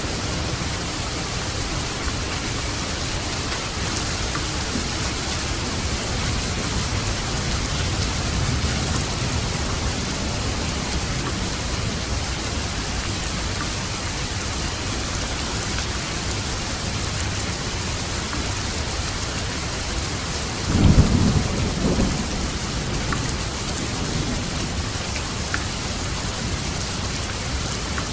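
Steady rain falling, with a short low rumble of thunder about three-quarters of the way through.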